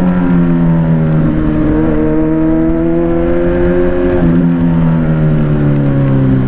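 Kawasaki Z900's inline-four engine running under way, its pitch climbing slowly and then dropping suddenly about four seconds in, as at an upshift, before easing lower as the bike slows.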